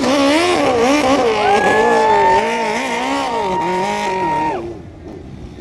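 Diesel pickup truck engine under heavy load pulling the sled, its pitch wavering up and down, with a steady high turbo whistle coming in about a second and a half in. The engine drops off sharply near the end.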